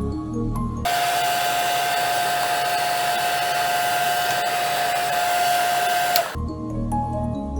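A small electric motor running a blower: an even rushing noise with a steady whine, switched on about a second in and cut off about six seconds in. Soft background music plays before and after it.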